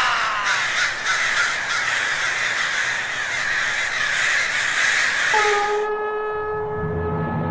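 A large flock of crows cawing all at once in a dense, loud din. Near the end the cawing stops and a single held musical note over a low drone takes over.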